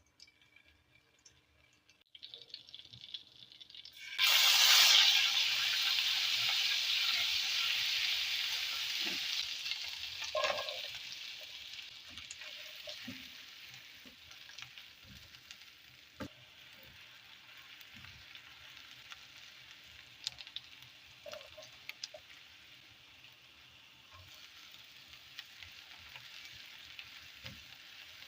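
Food going into a hot pan: a sudden loud sizzle about four seconds in that slowly dies down to a steady, quieter frying sizzle. Short knocks of a utensil against the pan come and go.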